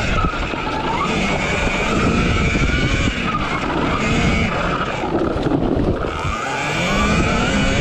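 RFN SX E15 Plus electric dirt bike's motor whining while being ridden, its pitch rising and falling several times with the throttle, over a heavy low rumble.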